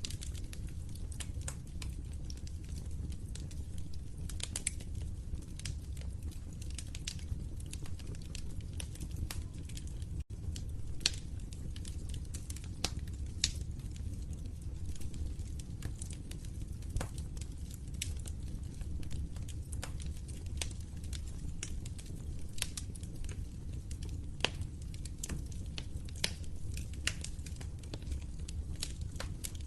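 Wood fire crackling in a fireplace: frequent sharp pops and snaps at uneven intervals over a steady low rumble of the flames, with a split-second gap about ten seconds in.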